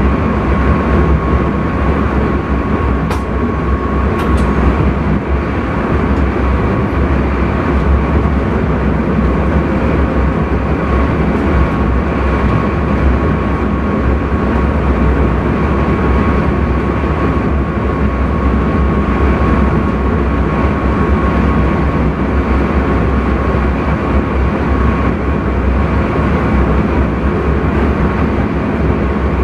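Intercity train running at speed, heard from inside the driver's cab: a steady low rumble and rail noise with a thin steady tone over it. Two brief clicks come about three and four seconds in.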